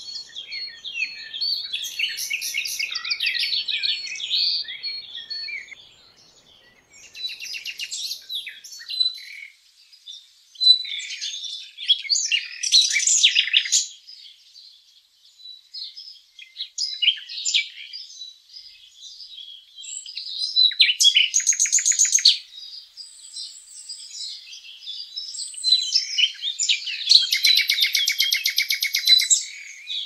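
Several songbirds chirping and singing, with rapid trills: one about halfway through, and a long fast trill near the end. A brief lull comes about six seconds in.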